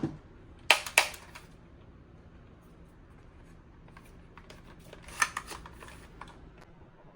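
Plastic toy blaster being handled between shots: two sharp clicks about a second in, then a run of lighter rattling clicks around five seconds.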